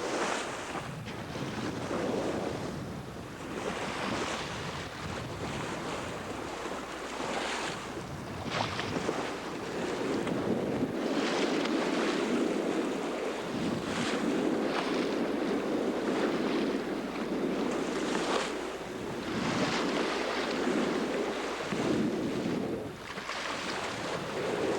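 Seawater rushing and splashing along the hull of a sailboat under way, with wind buffeting the microphone in gusts.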